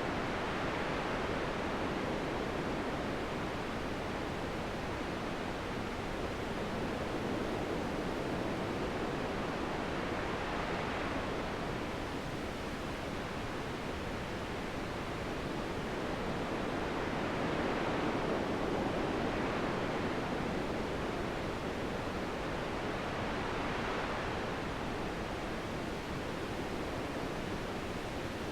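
Steady wind noise that swells gently and eases again every several seconds, like slow gusts.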